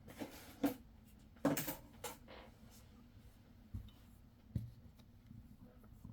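A handful of light clicks and knocks of coins being handled and set down on a hard surface, the loudest about one and a half seconds in.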